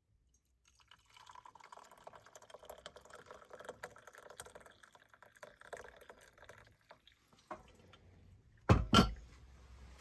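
Tomato soup sloshing and pouring for several seconds, a fine, crackly liquid sound. Near the end come two loud knocks in quick succession.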